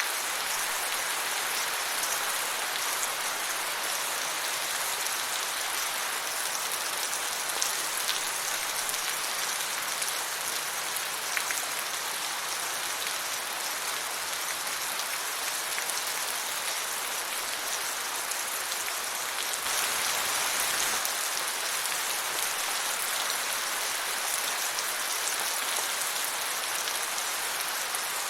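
Steady rain falling on a surface, an even patter with a few individual drops standing out here and there, growing a little heavier about two-thirds of the way through.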